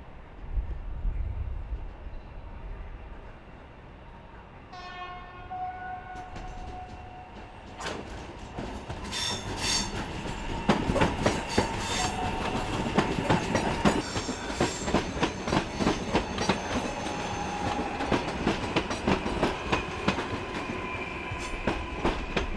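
A train sounds one horn blast of about two and a half seconds. Then its wheels clatter rapidly over rail joints and switches as it rolls through the station tracks, with thin wheel squeals over the clatter.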